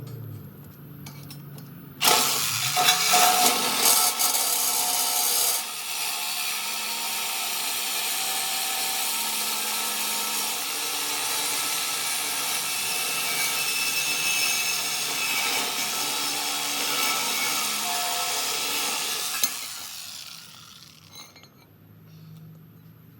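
Handheld power tool working on the go-kart's steel frame. It starts suddenly about two seconds in and is loudest for the first few seconds, then runs steadily and winds down near the end.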